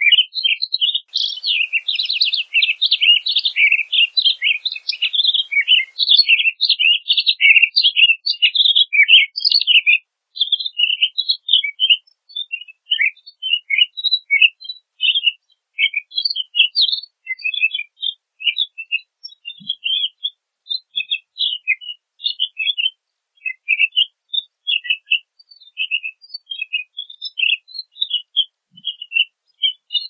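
Pine grosbeak singing: a fast, dense run of high chirping warbles for the first ten seconds or so, then sparser, separate chirp notes.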